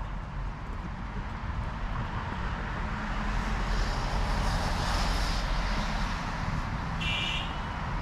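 Street traffic: a low engine rumble, with a vehicle passing that swells in the middle and fades. A short high beep sounds about seven seconds in.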